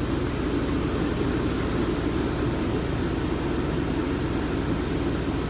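A 13,500 BTU RV air conditioner running steadily on high fan with its compressor on, a constant drone that all but drowns out the inverter generator powering it.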